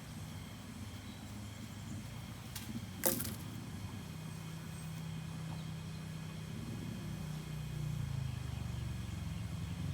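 A low engine hum running steadily, growing a little louder and changing pitch near the end, with a single sharp click about three seconds in.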